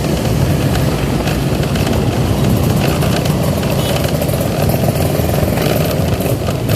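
Motorcycle engine running steadily while riding, under a steady rush of noise.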